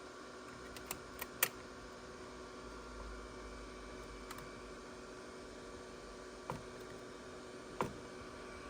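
2004 IBM ThinkPad T42 booting: a faint steady hum made of several tones, broken by sharp clicks, three close together about a second in and then three more spread out singly. These are among the dodgy, strange noises the laptop makes during boot-up.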